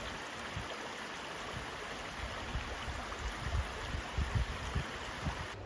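High Force, a waterfall on the River Tees, giving a steady rush of falling water, with irregular low thumps underneath. The rush cuts off abruptly near the end.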